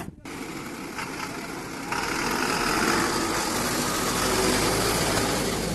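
JCB 3DX backhoe loader's diesel engine running steadily, getting louder about two seconds in.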